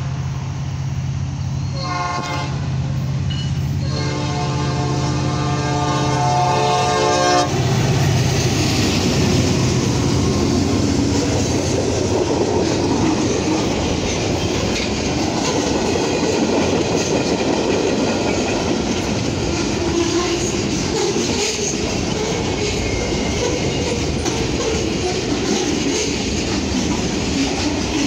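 Horn of a CN freight train led by an SD70M-2 and a Dash 9 diesel locomotive: a chord that runs out just after the start, a short blast about two seconds in and a long blast from about four to seven seconds, closing the long-long-short-long grade-crossing signal over the steady hum of the approaching engines. As the locomotives pass, it gives way to the freight cars rolling by with steady wheel clatter.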